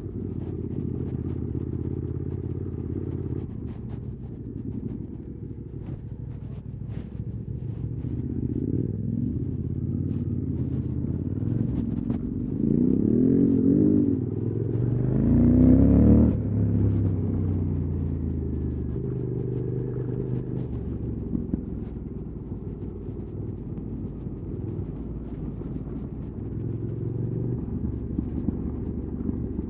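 QJ Motors SVT650X engine running through an Arrow slip-on exhaust under changing throttle. The revs rise and fall, with the strongest burst of throttle about halfway through, and faint clicks and knocks come in now and then.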